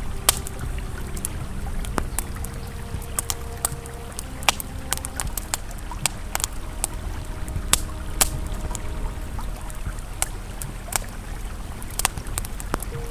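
Campfire crackling with sharp, irregular pops over the steady low rush of a flowing river. Faint, soft sustained ambient music tones sit underneath.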